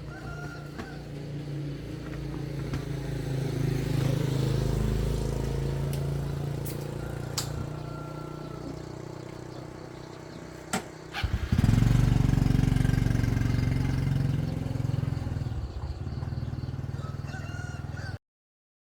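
A small engine running steadily. A sharp click comes just before it grows louder at about eleven seconds in, and the sound cuts off abruptly near the end.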